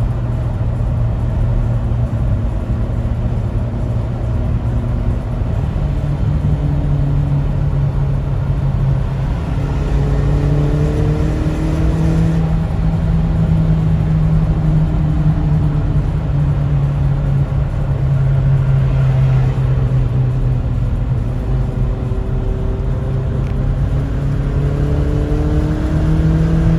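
Exhaust note of a Toyota Estima 50-series 2.4-litre inline-four (2AZ-FE), running steadily with a low hum whose pitch climbs a few times, eases off past the middle and rises again near the end.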